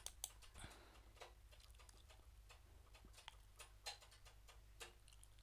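Faint, irregular clicking of a computer mouse and keyboard, a dozen or so separate clicks over a low steady hum.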